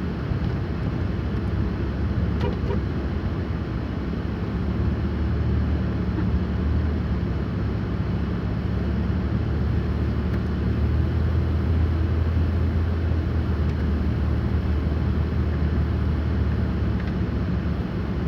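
Car driving slowly on a snow-covered road, heard inside the cabin: a steady low hum of engine and tyres.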